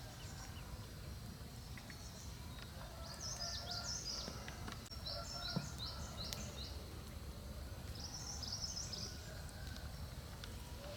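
A small songbird singing two quick runs of high, repeated downward-sweeping chirps, the first lasting two or three seconds and the second shorter near the end, over a steady low background rumble.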